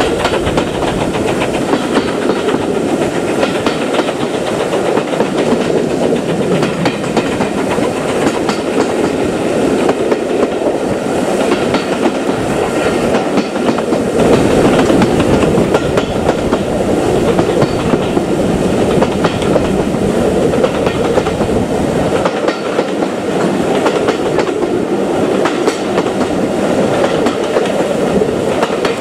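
Train running along the track, its carriage wheels rumbling with a steady clickety-clack over the rail joints.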